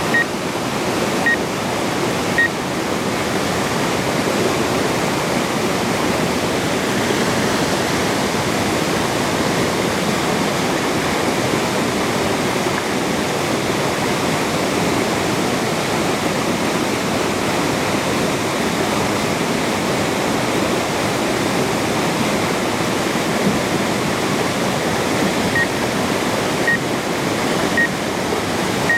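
Waterfall: a steady rush of falling water. Short high beeps sound about once a second, three times near the start and three times near the end.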